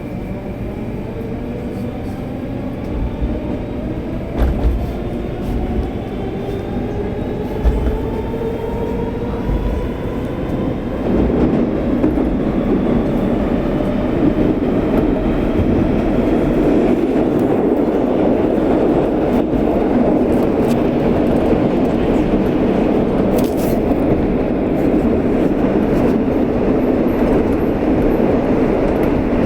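Moscow Metro train accelerating away from a station: the traction motors whine, rising in pitch over the first ten seconds or so, then the carriage runs at speed with a steady rumble and rattle of wheels on rail and a few short knocks.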